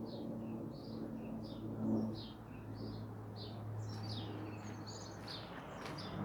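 Small birds chirping, a quick string of short high notes about two a second, over a steady low hum.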